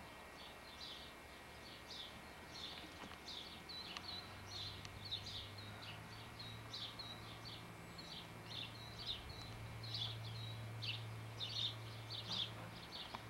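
Birds chirping outdoors: a run of short high chirps, about two a second. A low steady hum joins about four seconds in and stops near the end.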